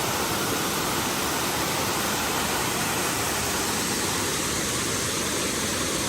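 Waterfall water falling and splashing as a steady, even rush of noise.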